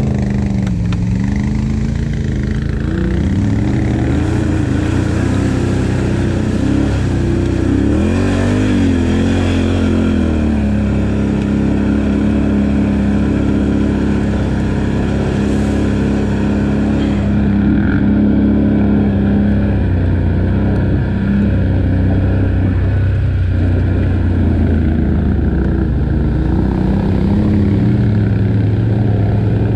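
ATV engine running under way, its pitch rising and falling with the throttle, with a quick rev up and back down about eight to ten seconds in, then running fairly steadily.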